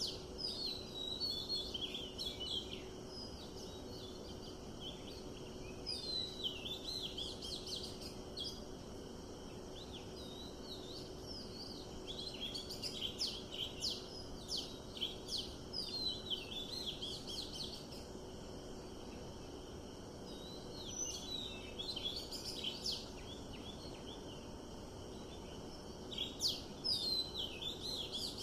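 Wild birds chirping and trilling in clusters of quick calls every few seconds, with quieter gaps between, over a steady background hiss.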